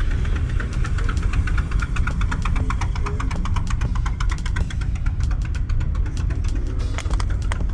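A motorcycle engine running, heard as a fast train of pulses over a heavy low rumble.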